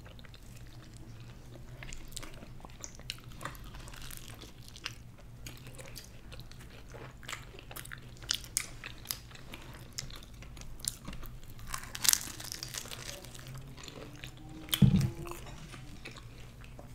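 Close-miked eating: naan and curry being bitten and chewed, with scattered small crunches and mouth clicks. There is a dull thump near the end.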